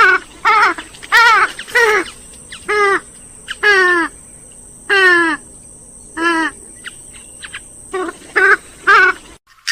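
Grey-headed swamphen calling: a dozen or so short calls in quick, uneven succession, each one wavering and dropping in pitch.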